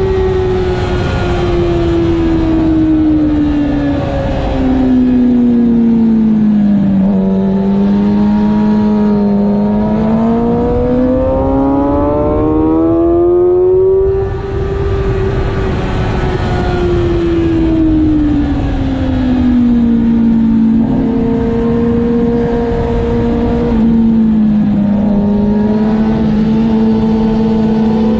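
Motorcycle engine at track speed, its note sinking, climbing and sinking again with throttle and gear changes, with a short dip in level about halfway through. Heavy wind noise on the camera microphone runs underneath.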